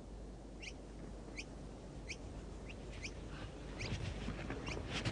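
A bird calling over and over, one short high chirp roughly every 0.7 seconds, over a steady outdoor background. Soft low knocks or shuffling come in and grow louder from about four seconds in.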